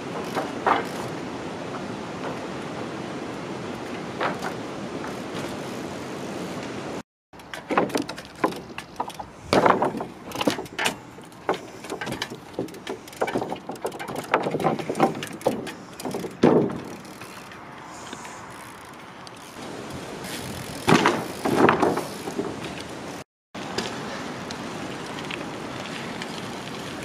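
Trials bike being ridden over timber: repeated sharp knocks and clatters as the wheels hop and land on wood, over a steady background hiss. The sound drops out twice, briefly, where the footage is cut.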